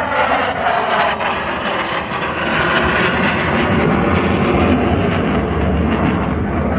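Military jet aircraft flying past during an air display, its engine noise loud and continuous, with a low rumble under a broad hiss.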